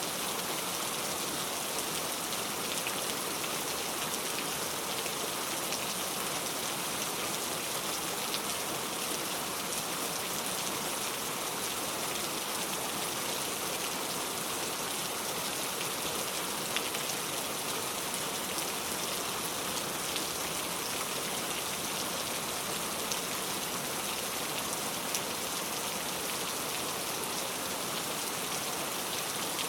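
Heavy rain falling steadily, a dense even hiss with the odd sharper drop-tick.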